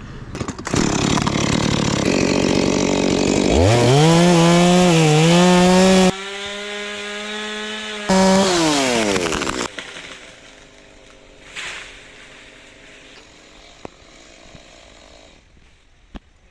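Two-stroke chainsaw revved up to full throttle, held high for a few seconds, then let wind back down to idle.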